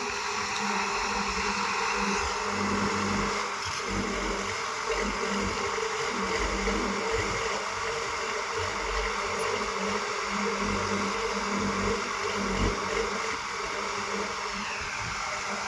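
Heavy diesel earthmoving machinery, a bulldozer or tractor, running steadily under load with a droning engine note. A brief falling whine comes near the end.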